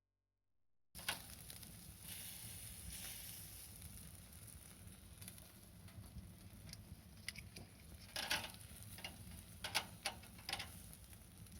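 Wood fire burning faintly, with scattered crackles and sharp pops over a steady low hiss. It starts about a second in, after a moment of silence.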